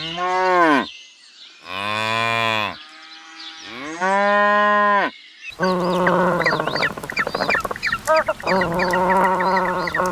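Cow mooing three times, each a long drawn-out call of about a second. About halfway through, the sound changes to an animal bleating with a wavering voice, calling over and over, with high short chirps above it.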